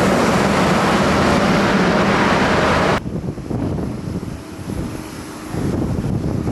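Jet airliner engines, loud and steady, that cut off suddenly about three seconds in, leaving a quieter low rumble with wind on the microphone.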